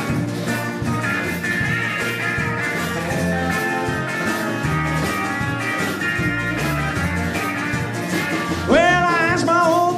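Live country band in an instrumental break: a guitar solo over electric bass and drums, with a strong sliding vocal line entering near the end.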